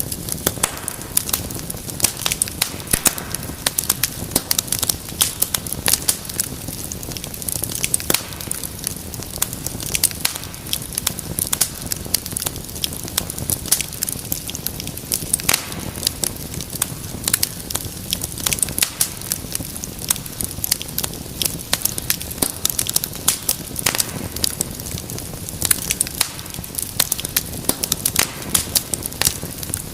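Wood fire crackling in a fireplace: irregular sharp pops and snaps several times a second over a steady low rumble of flame.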